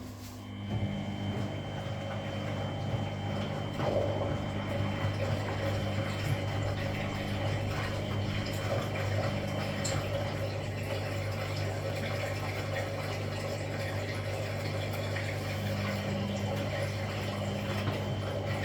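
Washing machine with water flowing through it, over a steady low hum that starts about half a second in and holds steady.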